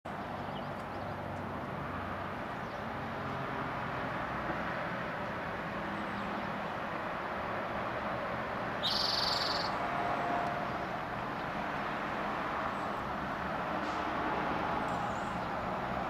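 Spotted towhee giving one short trilled song, under a second long, about nine seconds in, over a steady low background hum.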